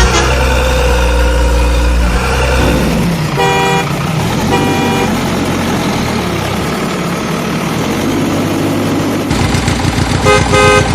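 A motor vehicle's engine running, with two short horn honks about three and a half and four and a half seconds in and a quick series of honks near the end.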